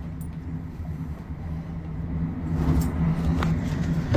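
Car engine running with a steady low hum, growing louder about two and a half seconds in.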